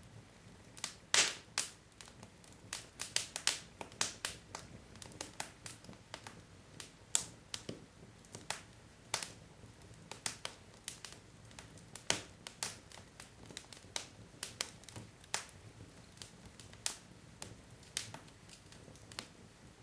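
Wood logs burning in a fireplace: irregular sharp crackles and pops, several a second at times, over a faint low hiss of the fire.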